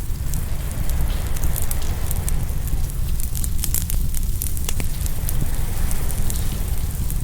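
Open wood fire crackling, with frequent sharp pops and snaps scattered irregularly, over a steady low rumble of ocean surf.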